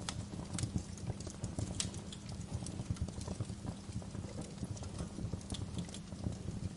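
Wood fire crackling in a fireplace: irregular sharp pops and snaps over a steady low rumble of burning logs, with louder pops at the very start and about two seconds and five and a half seconds in.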